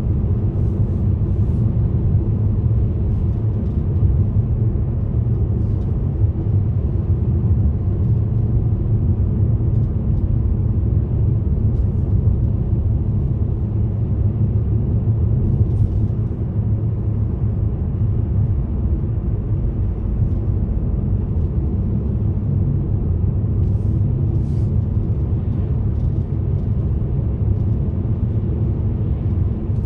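Steady low rumble of a car being driven along a road: engine and tyre noise holding an even level, with a few faint clicks.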